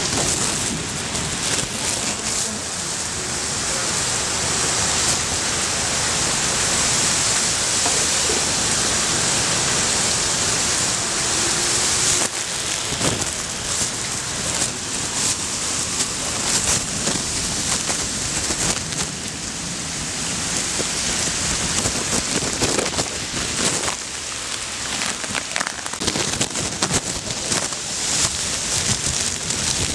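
Heavy downpour: a dense, steady hiss of rain. From about halfway through, it is broken by irregular crackling splashes of drops landing close by.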